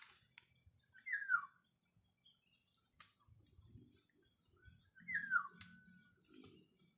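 Black-naped oriole calling: two loud calls, each sliding downward in pitch, about four seconds apart.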